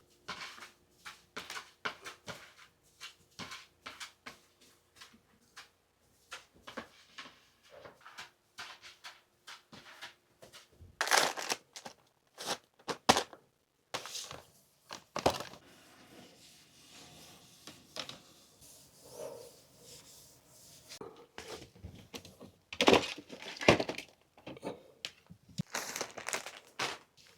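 Household items being handled during cleaning: a long run of crinkling, rustling and light knocks, with several louder crinkling bursts.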